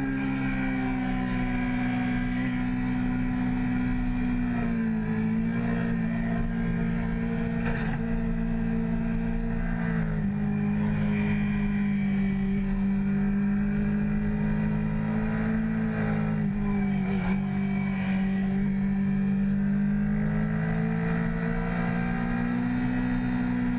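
Honda CBR600 F4i's inline-four engine running at high revs on track, its pitch easing down and climbing back up a few times with no sharp gear-change steps.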